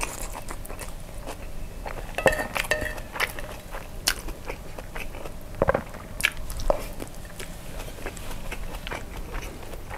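Close-miked chewing of a spoonful of kimchi fried rice: irregular wet mouth clicks and smacks as the rice is eaten.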